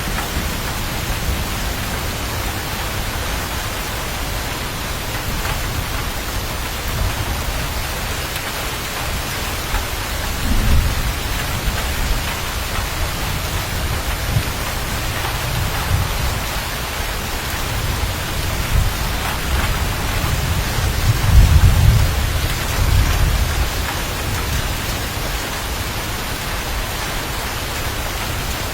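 Steady heavy rain with thunder rumbling low underneath: a short roll about ten seconds in and a longer, louder rumble about three quarters of the way through.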